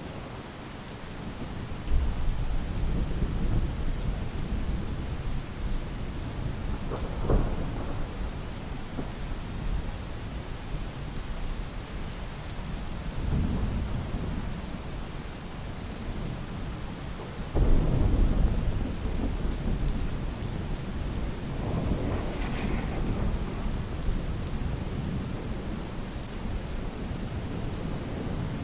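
Steady rain with rolling thunder: a low rumble breaks in about two seconds in and a louder one about 17 seconds in, with a sharper crack around 7 seconds.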